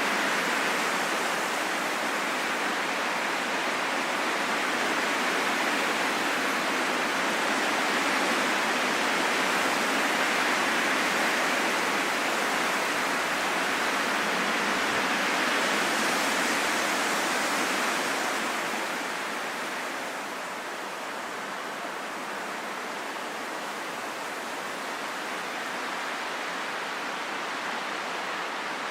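Steady rainfall in a forest, a dense even hiss of falling rain, easing a little about two-thirds of the way in.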